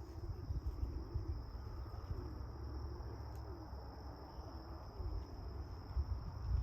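Wind buffeting the microphone with a low rumble, under a steady high-pitched tone and faint, repeated low cooing of pigeons.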